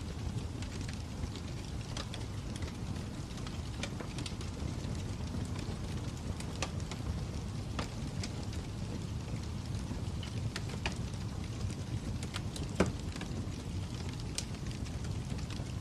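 Fire crackling: a steady low rumble with scattered sharp pops and snaps, one louder pop near the end.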